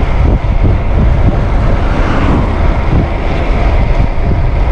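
Strong wind rushing and buffeting over a microphone fitted with a furry windshield, on a bicycle moving at about 30 mph. The low rumble is steady and loud, with uneven gusting throbs.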